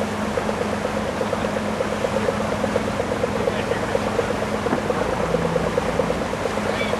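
A motor running steadily with a fast, even pulsing, over a constant haze of noise.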